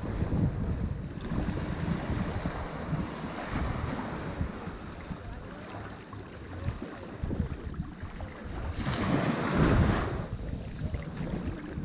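Ocean waves breaking on a shore in a continuous wash of surf. One wave surges loudest about nine to ten seconds in. Wind noise on the microphone rumbles underneath.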